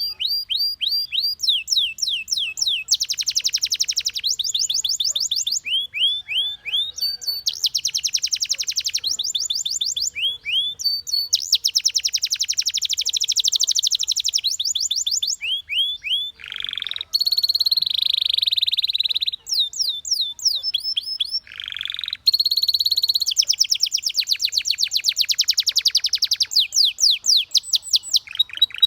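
Domestic canary singing: fast trills and runs of quick down-slurred whistled notes, many to the second, changing from one phrase to the next, broken twice by a short harsh, buzzy note.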